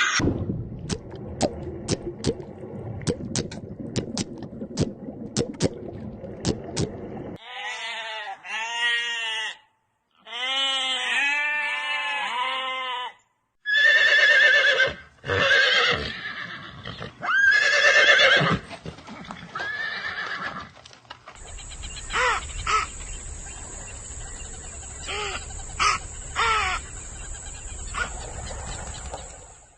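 A run of short animal-call clips. First comes about seven seconds of noise with sharp clicks, then a string of calls that rise and fall in pitch, then several loud calls, and finally a noisier stretch under a steady high tone.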